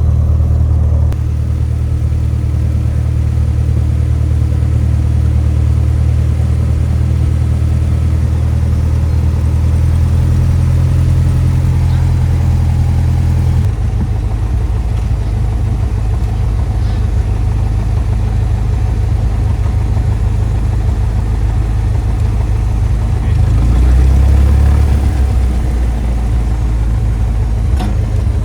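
Single-engine light aircraft's piston engine droning steadily, heard from inside the cabin. Its note changes about a second in and again about halfway through, as with power changes, and it swells briefly near the end.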